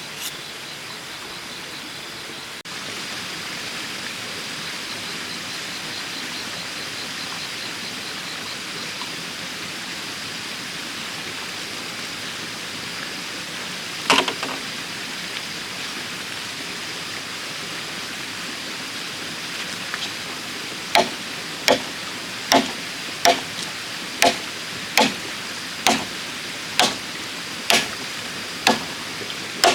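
Steady rushing background noise with a faint high steady tone, broken by a single sharp knock about halfway through; near the end, about a dozen evenly spaced sharp blows of a tool on bamboo come roughly once a second.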